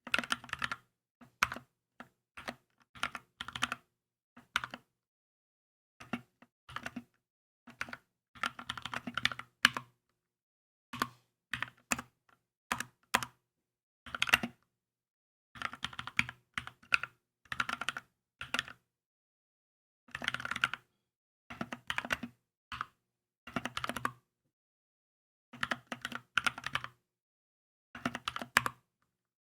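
Typing on a Keychron K2 mechanical keyboard, keys clacking in quick bursts of a few keystrokes with short pauses between them.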